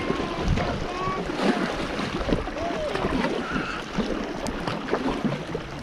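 Wind buffeting the microphone over the water noise of a kayak being paddled, with faint voices in the background.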